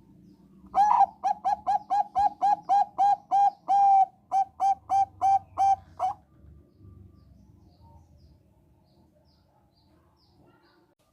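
Zebra dove (Thai 'perkutut bangkok' strain) singing: a quick, even run of about twenty short, clear coos, nearly four a second. The run starts about a second in, has a slight break halfway and stops after about five seconds.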